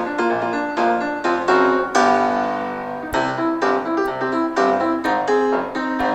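Background piano music, a steady run of clearly struck notes.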